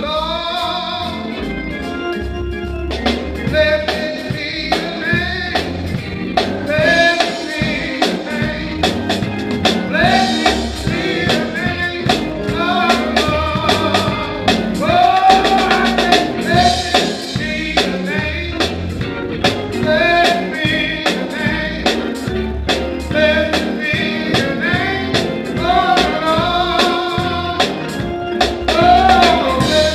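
Gospel praise singing with a live band: voices singing a worship song over drums and a steady beat, with bass and keyboard underneath.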